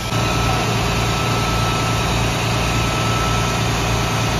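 An engine idling steadily, a low even rumble with a faint steady whine above it.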